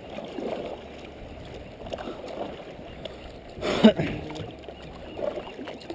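Kayak paddles dipping and splashing in sea water in an uneven, low wash of sound, with one short louder burst a little before four seconds in.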